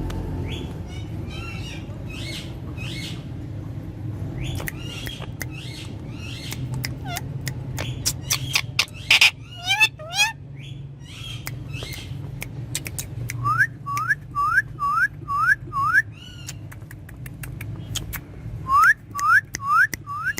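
Ringneck parakeet calling and whistling: assorted sharp calls and squawks, then a run of six quick rising whistles about two-thirds of the way through and four more near the end. A steady low hum runs underneath.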